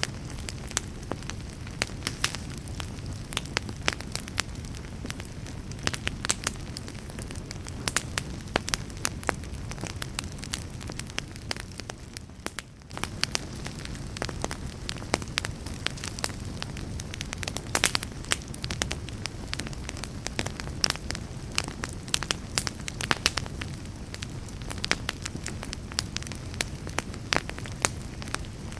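Campfire crackling, with frequent irregular sharp pops over a steady low rumble of the flames. The sound briefly drops away for a moment about halfway through.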